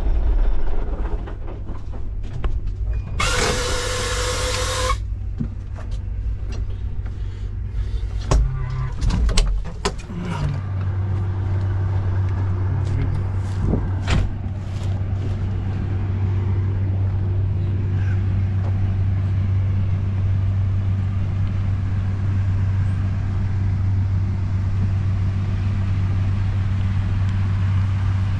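A heavy engine running. There is a brief loud hiss about three seconds in and a few knocks and clatters, and from about ten seconds in the engine settles into a steady, even hum.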